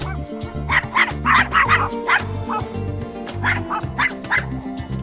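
Dog barking repeatedly in short barks over background music with a steady beat.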